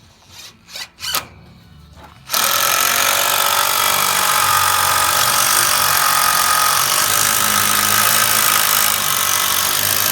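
A power tool squeezed in a few short bursts, then run steadily for about eight seconds and stopped suddenly.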